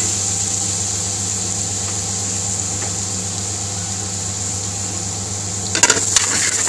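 Garlic and ginger paste sizzling steadily in hot oil in an aluminium pan, over a constant low mechanical hum. Near the end a few sharp clicks of a metal spoon against the pan as chopped onion is added.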